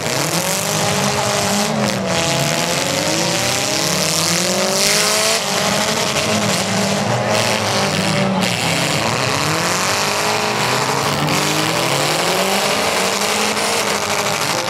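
Several demolition derby car engines revving up and down at once, their pitches rising and falling over one another, over a steady wash of running and tyre noise.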